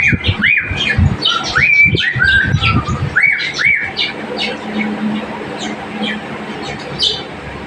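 Cockatiel whistling a short run of rising and falling notes, mixed with chirps and squawks; after about four seconds the whistling stops and only scattered chirps remain.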